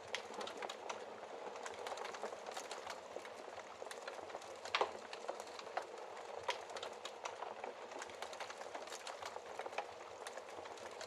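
Wood fire in a fireplace crackling: a steady run of small snaps and pops over a soft hiss, with a louder pop about five seconds in.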